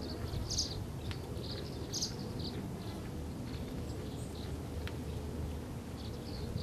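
Tree swallows chirping: short, high chirps at irregular intervals, over a steady low background rumble.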